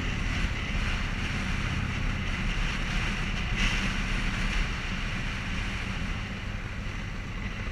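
Motorcycle engine running at a steady cruise with wind rushing over the microphone while riding.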